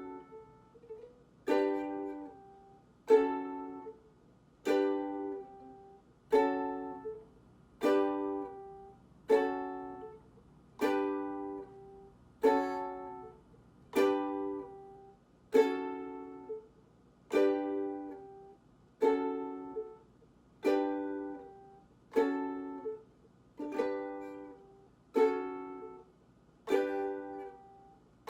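Ukulele strumming one chord about every second and a half, each left to ring out, switching back and forth between Gbm and G as a chord-change drill.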